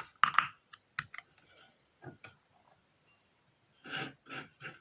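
Light clicks and taps of a beer can and glass being handled, then three short gushing bursts about four seconds in as beer is poured from the can into a glass.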